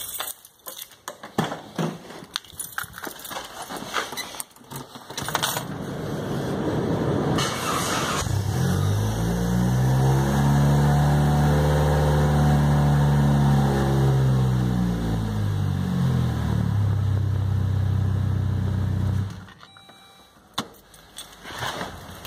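Clicks and knocks of a car door and keys, then a Saab's starter cranks for about two seconds and the engine catches, its revs rising and falling back to a steady idle, with a supercapacitor bank standing in for the battery. About ten seconds later the engine is switched off and stops abruptly.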